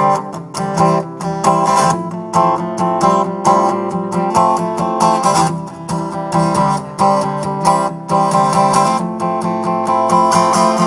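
Acoustic guitar strumming chords in a steady rhythm, an instrumental passage of a song, with the last chord left ringing near the end.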